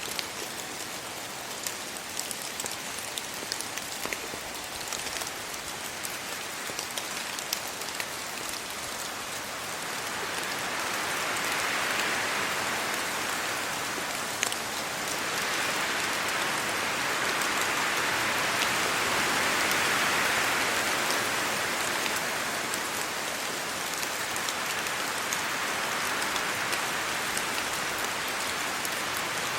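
Steady rain falling, with many sharp drop ticks over a continuous hiss. The hiss swells louder for several seconds through the middle, as a gust moves through the wet tree leaves, then eases back.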